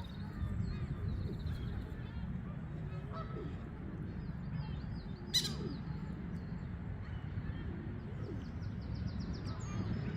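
Small birds chirping and trilling over a steady low rumble, with a single sharp click about five seconds in.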